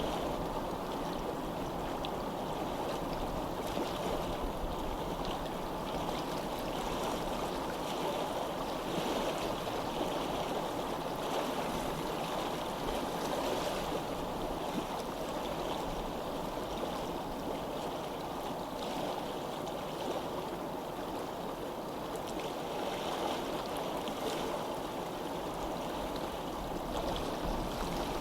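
A stream of running water, a steady rushing and babbling with no pauses.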